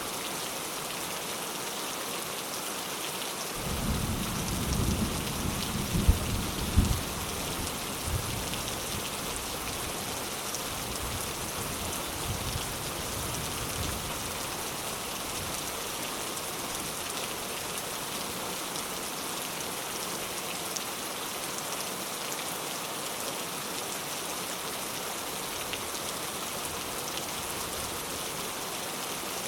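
Steady rain hissing on surfaces. About four seconds in, a roll of thunder rumbles with two sharp cracks, then dies away in fainter rumbles.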